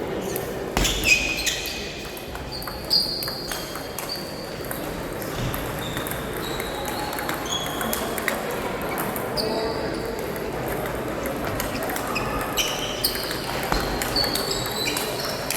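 Table tennis play in a large hall: a celluloid ball clicks off bats and table, and shoes give short, high squeaks on the floor. Voices murmur in the background, with the sharpest clicks about one and three seconds in.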